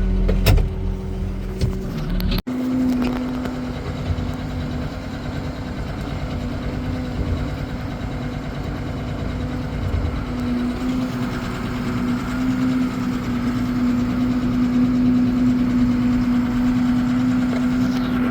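Diesel engine of a 2290 field tractor running steadily with a low, even drone while pulling a disc. The sound breaks off about two seconds in and picks up again with the same drone.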